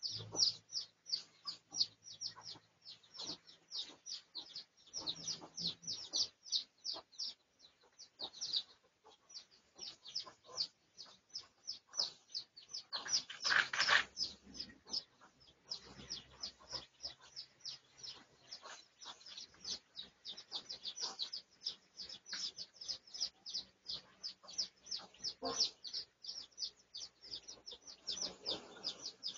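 Bird chirping continuously in quick, high, falling notes, about four a second, with one louder, harsher sound about halfway through.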